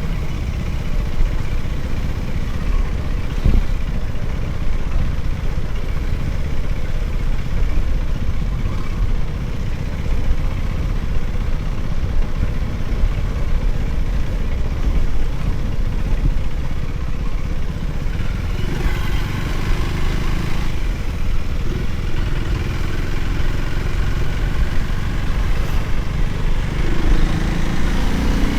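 Motorcycle engine running while riding, under a steady low rumble. Near the end the engine note climbs as it accelerates.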